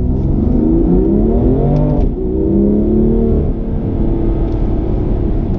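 BMW M2 Competition's 3.0-litre twin-turbo inline six pulling hard in Sport Plus with the exhaust flaps open, heard from inside the cabin. The pitch rises, drops sharply at an upshift about two seconds in, climbs again, then settles to a steadier drone for the second half.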